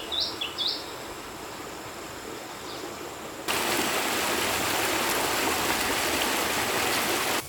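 A few short, quick bird chirps in the first second over a steady rushing noise, like running water. The noise jumps abruptly louder about three and a half seconds in and stays even.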